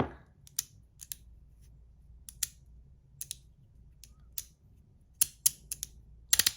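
Three-click magnetic slider fidget, 3D-printed, being slid back and forth: sharp plastic clicks as the magnets snap it into each position, irregularly spaced and often in quick pairs, with a fast run of clicks near the end.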